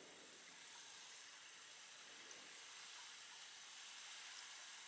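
Faint steady rain: an even fine hiss with a few tiny drip ticks.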